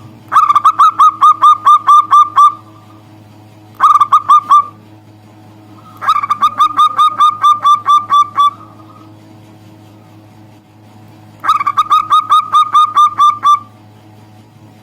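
Zebra dove (perkutut) cooing in four runs of rapid, evenly repeated clipped notes, about four or five a second, over a steady low electrical hum.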